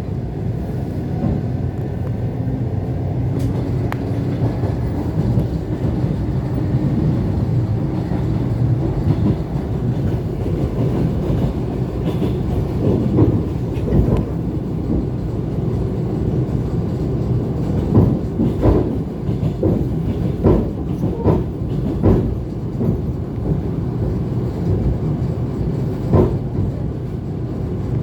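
ET2 electric train running at speed between stations, a steady rumble of wheels on rail. Through the second half, sharp knocks from the wheels passing over rail joints come in irregular clusters.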